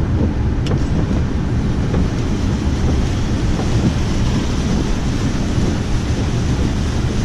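Loud, steady low rumble of wind buffeting the microphone, with one short click about two-thirds of a second in.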